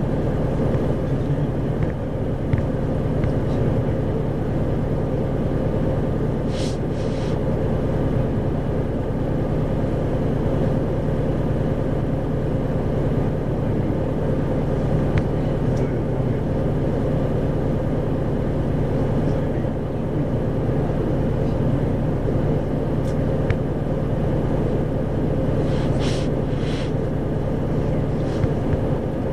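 Isuzu 2RG-LV290N4 city bus heard from inside the cabin: the diesel engine and road noise drone steadily at an even speed. A couple of short ticking rattles come at about 7 seconds and again near 26 seconds.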